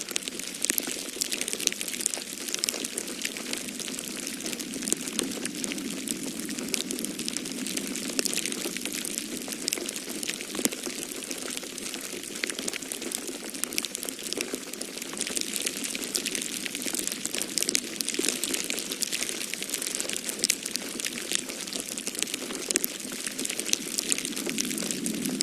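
Wood fire crackling in a fireplace, with many small pops and snaps, over a steady rush of storm wind that swells and eases.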